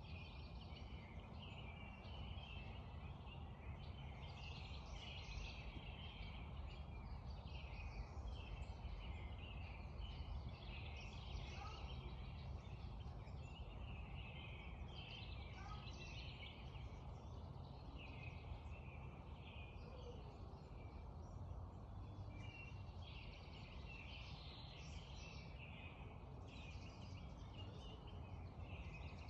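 Dawn chorus of many songbirds chirping and singing continuously over the steady rush of a creek.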